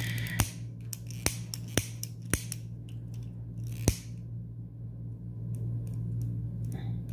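Five short, sharp clicks spread over about four seconds, the last the loudest, made while the loose thread ends are being finished off.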